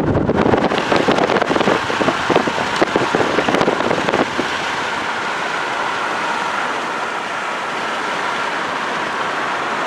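Thunderstorm wind and rain rushing over the microphone, gusty and crackling for the first few seconds, then a steady roar that cuts off abruptly.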